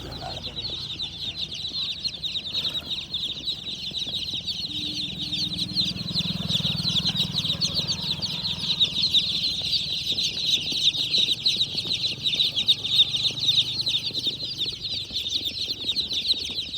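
A crowd of baby chicks cheeping all at once: a dense, unbroken chorus of many overlapping high peeps.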